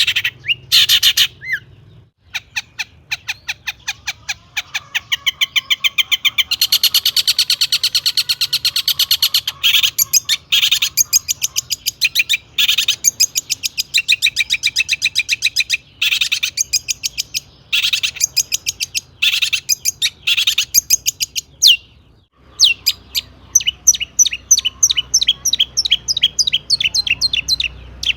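Long-tailed shrike (cendet) singing a loud, varied song of rapid chirping trills, broken by short pauses.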